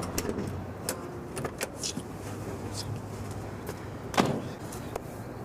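A car that has broken down and won't go: a low hum with scattered small clicks, and one thud about four seconds in.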